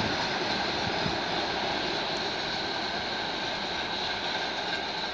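Freight train of tank wagons rolling away on the rails: a steady rolling noise of wheels on track, slowly getting fainter.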